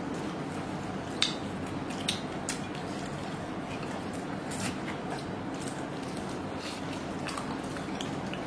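Cutlery clicking lightly against plates a few times during a meal, over a steady background hiss.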